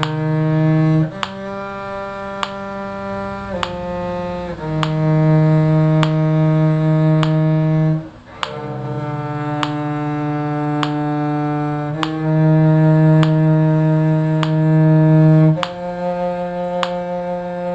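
A low bowed string instrument playing the lower part of a slow tune: long held notes, each lasting about one to four seconds, with a brief break about eight seconds in.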